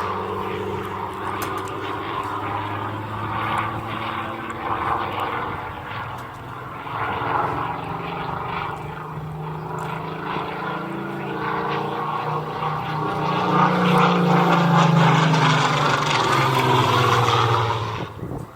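Piston-engined propeller aircraft running, several engines at once, giving a steady drone. It swells and rises slightly in pitch in the second half, then cuts off abruptly just before the end.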